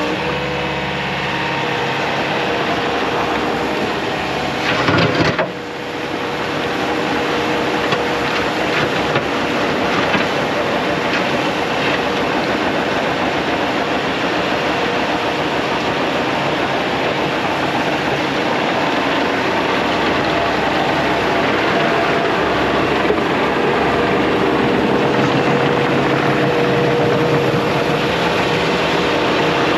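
Mecalac loader's diesel engine and hydraulics running steadily while the machine works, with a thin steady whine over the engine noise. There is a brief louder surge about five seconds in, then a short dip.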